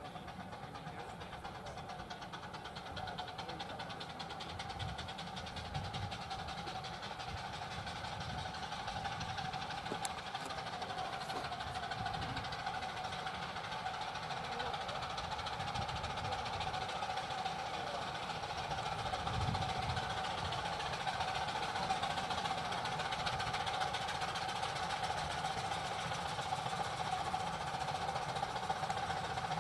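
A 10.25 inch gauge miniature steam locomotive running, its rapid exhaust beats and steady hiss getting gradually louder.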